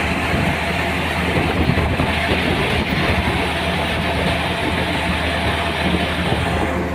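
An engine-driven harvesting machine running steadily: a low engine hum under a dense rushing, clattering noise, which eases off just before the end.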